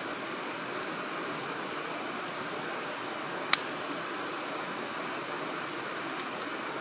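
Wood campfire burning, with scattered crackles and one sharp pop about three and a half seconds in, over a steady hiss.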